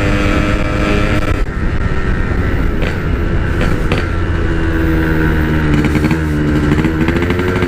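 Yamaha RX-King's single-cylinder two-stroke engine running under way on its stock exhaust. The pitch holds steady at first, drops about a second and a half in, then rises gradually through the second half as the bike accelerates.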